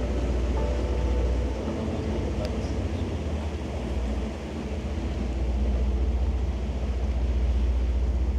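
Tour boat's engines running steadily under way, a low drone.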